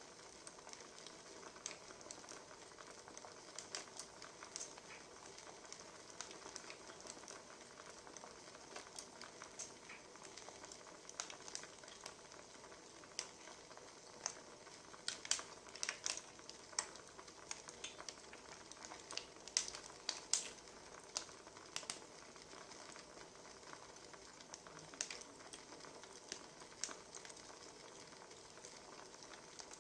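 Wood fire crackling: irregular pops and snaps over a soft hiss, coming thickest about halfway through.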